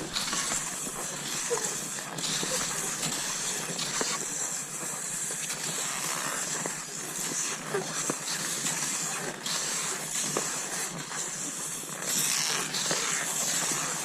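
Cross-country skis sliding over snow: a hiss that swells and eases with each stride, every second or two, with occasional faint clicks.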